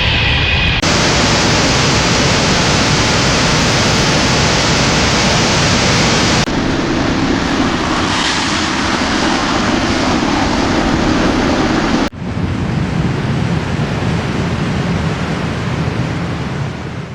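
Loud jet airliner engine noise, a steady rushing roar in several segments joined by abrupt cuts, one about a second in, another near the middle and a third about two-thirds through.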